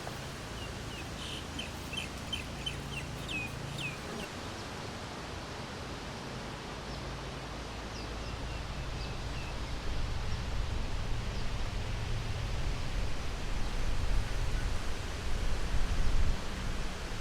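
A bird calls in a quick run of about a dozen high chirps, then a few more later, over a steady outdoor hiss. In the second half a low rumble grows louder and becomes the loudest sound.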